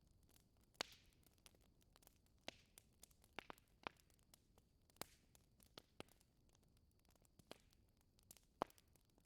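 Wood fire crackling in a fireplace: scattered sharp pops and snaps at irregular intervals over a faint hiss, two of them louder, about a second in and near the end.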